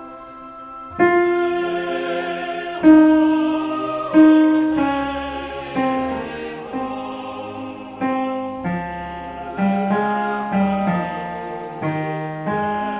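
Piano playing a slow choral line in chords, each note struck and then fading, with a new note or chord about every second.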